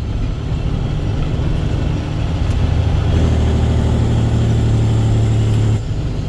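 Dump truck's diesel engine running steadily with a deep hum; its note drops out briefly near the end, then picks up again.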